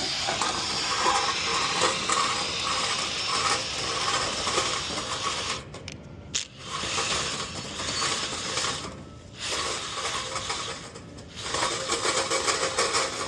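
Dryer-vent brush on extension rods spinning and rattling against the inside of the vent duct after reaching the bottom. It stops briefly three times, about 6, 9 and 11 seconds in.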